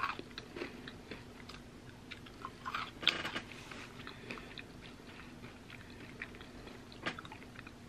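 Closed-mouth chewing of crunchy chocolate-coated cookie candies (M&M'S Crunchy Cookie): faint, scattered crunches, with a louder cluster about three seconds in and a single sharper crunch near the end.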